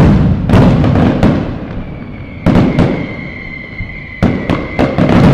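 Fireworks going off: a run of sharp bangs, several in quick clusters, each with a trailing crackle. A steady high whistle starts about two seconds in and holds under the later bangs.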